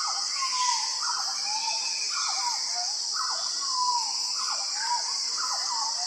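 A bird calling over and over, a short phrase of quick falling and rising notes about once a second, over a steady high drone of insects.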